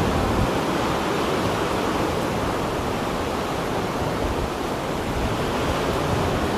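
Steady rush of wind and choppy sea waves, with gusts buffeting the microphone in an uneven low rumble.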